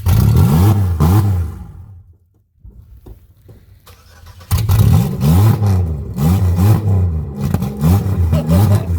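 Buick Century's 3.1-litre V6 revved hard with its pitch rising and falling, then dropping away to near quiet for a second or two. From about halfway through it is revved up and down over and over at high revs.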